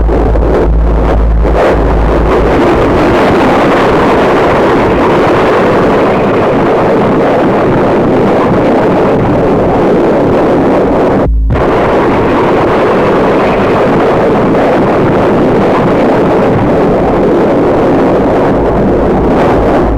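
Loud, steady jet engine noise from a North American F-100 Super Sabre's Pratt & Whitney turbojet flying a display pass. The sound drops out for a split second about halfway through.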